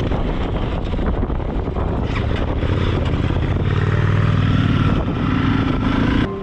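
Motorcycle engine pulling away and accelerating, its pitch rising steadily over the last few seconds, over a constant rush of wind noise; it cuts off abruptly near the end.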